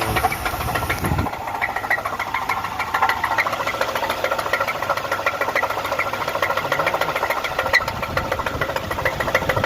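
Supercharged 3.8-litre V6 of a Pontiac idling with a rapid, even rod knock: a failed connecting-rod bearing, bad enough that the engine needs replacing.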